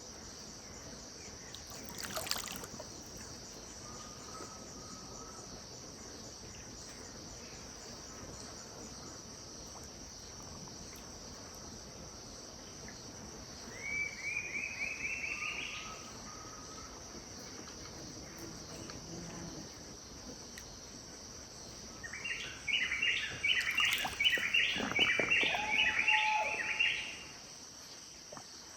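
Steady high-pitched drone of an insect chorus, with birds calling over it: a short run of rising notes in the middle, then a loud, fast chattering of many notes for about five seconds near the end. A brief sharp knock comes about two seconds in.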